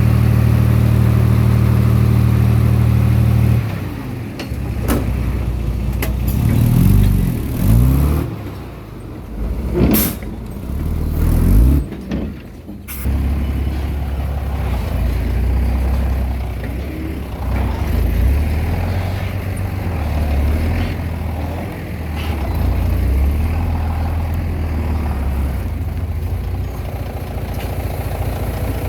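Komatsu D20P bulldozer's diesel engine running while it works. A steady note for the first few seconds changes abruptly; the engine speed then rises and falls several times under load, with a few sharp metallic knocks, before it settles into steady running.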